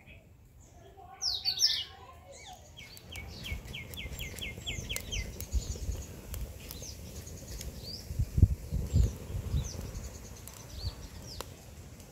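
Songbirds calling outdoors. A loud burst of falling high calls comes about a second in, then a quick run of about ten repeated chirps at roughly five a second, with scattered chirps throughout. Low rumbling thuds come and go through the middle and are loudest near the end.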